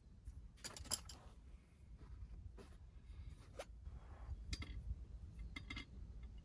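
Faint handling noises: scattered sharp clicks and scrapes with a soft rustle, a handful of small knocks spread over several seconds.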